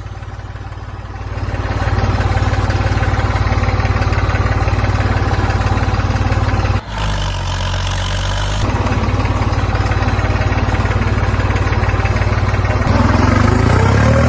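Heavy-vehicle engine running at a steady, pulsing idle, cut off abruptly about seven seconds in and resuming, then rising in pitch near the end as it revs.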